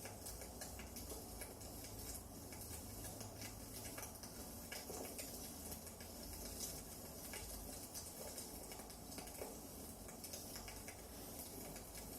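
Firewood burning in a fireplace, crackling with irregular small pops and snaps over a soft steady hiss.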